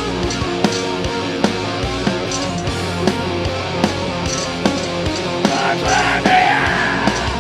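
Heavy metal band playing live: sharp drum hits over sustained distorted chords, with a voice-like wail rising near the end.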